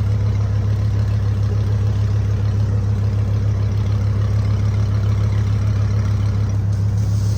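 Lamborghini engine idling steadily, a deep even hum.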